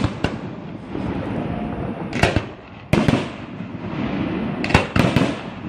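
Fireworks going off: about six sharp bangs, several in quick succession near the end, over a steady rumble.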